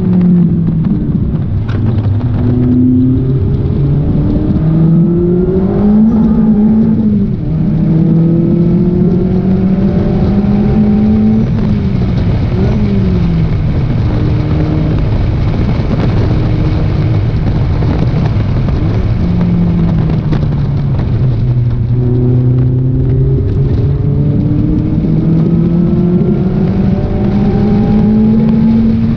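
Lotus Elise engine heard from its open cockpit while being driven hard on track: the note climbs with each gear, drops at the shifts and falls away under braking and downshifts, then climbs again over the last several seconds.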